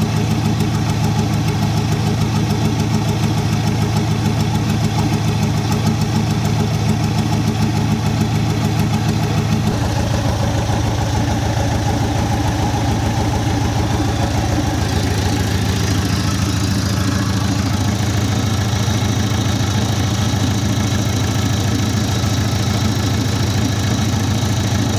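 Perkins diesel engine running steadily. Its tone changes about ten seconds in and again a few seconds later.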